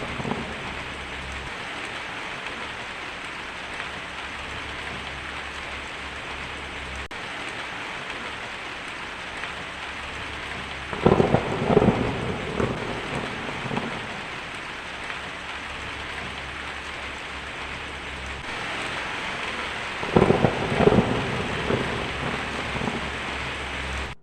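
Heavy rain drumming steadily on a tin roof, with two loud rumbles of thunder, one about halfway through and another near the end.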